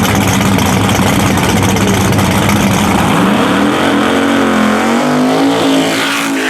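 Small tire drag racing car's engine running hard. About three seconds in, its pitch climbs steadily as the car accelerates.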